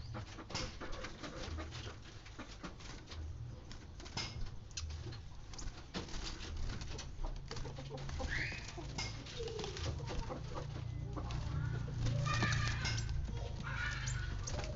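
A small caged sunbird calling in short chirps, one rising chirp about halfway through and a cluster of chirps near the end, over a run of quick light clicks and a low rumble, as the bird is bathed.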